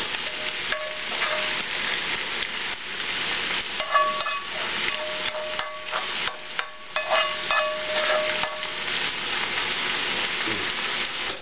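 Cabbage and Spam frying in bacon grease with a steady sizzle. A spatula scrapes and clinks against the pans as crispy Spam cubes are pushed out of one pan into the other, with short scraping squeaks between about four and nine seconds in.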